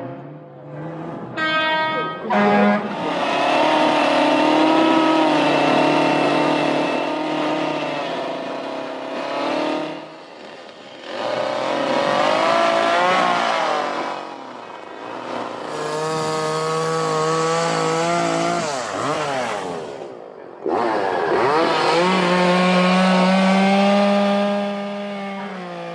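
Municipal vehicles' horns being honked in four long blasts, several pitches sounding together and wavering, with some sliding up and down in pitch like a siren.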